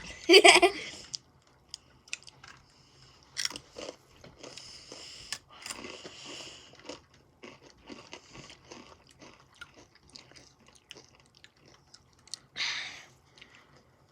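Crunching and chewing of Takis rolled tortilla chips, close to the microphone, with irregular crisp crunches throughout and a short louder rush of noise near the end.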